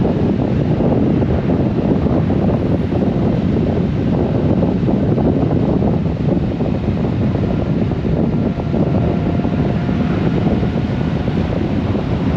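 Wind rushing over the microphone of a Honda GoldWing motorcycle at riding speed, with the bike's engine and road noise underneath: a loud, steady rumble.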